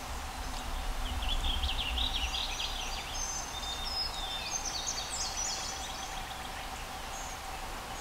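Songbirds singing: quick bursts of high chirps and trills starting about a second in and fading out after about five seconds, over a faint steady hum and a low rumble.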